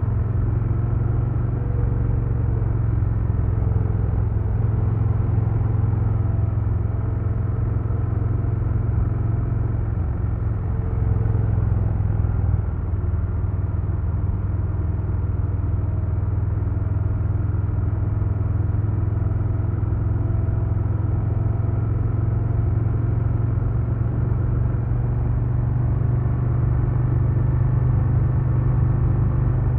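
A 2022 Harley-Davidson Low Rider S's Milwaukee-Eight 117 V-twin running steadily on the road. The engine note shifts slightly about twelve seconds in.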